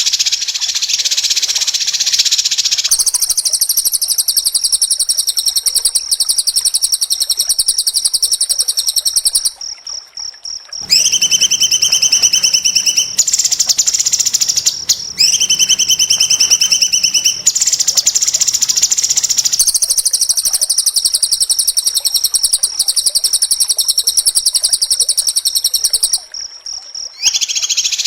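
Recorded songbird calls for training a white-rumped shama: very fast, dense, harsh high-pitched chattering and trilling, in looped stretches that switch abruptly to a different pattern every few seconds, with two brief drops in level, near the middle and near the end.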